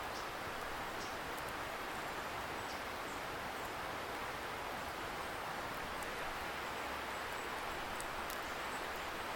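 Steady rushing of a distant river, heard as an even hiss, with the faint scattered crackle of a wood campfire.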